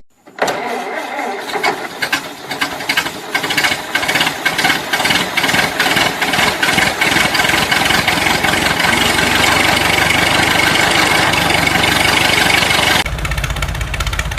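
A small motor running with a fast, irregular clatter. Near the end it changes abruptly to a steadier low hum.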